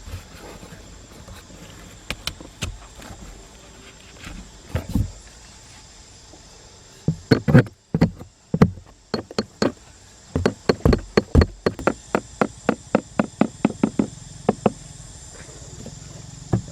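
A run of sharp knocks, a few scattered at first, then a fast series of about three or four a second from about halfway through, stopping shortly before the end.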